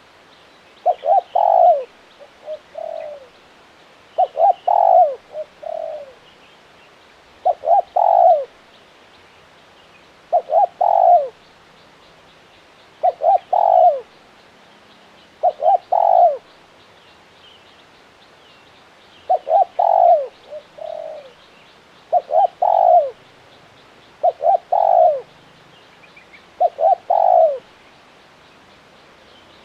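Spotted dove cooing its song: a phrase of two or three quick notes and a longer coo, repeated about every two to three seconds, with a softer trailing coo after a few of the phrases.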